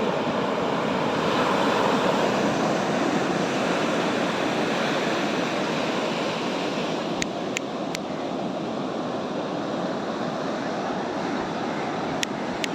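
Steady rush of surf breaking and washing up a beach, with a few sharp clicks: three in quick succession about seven seconds in and one near the end.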